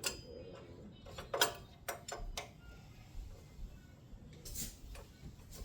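Small metal tools and parts clicking and knocking as screws go back into a small engine: a sharp click, then a quick run of about four knocks, and a short hiss near the end.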